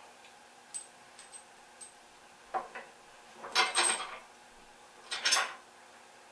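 Loose small metal hardware, washers and bolts, clinking as it is handled: a few light ringing ticks, then three louder metallic rattles.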